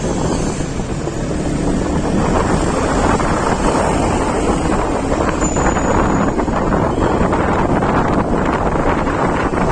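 Heavy wind buffeting the microphone while travelling along a road, with a low rumble of vehicle and road noise beneath it.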